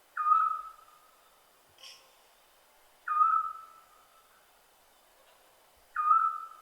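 Scops owl calling: three short single-pitched hoots, each starting a touch higher and settling onto one level note, spaced about three seconds apart.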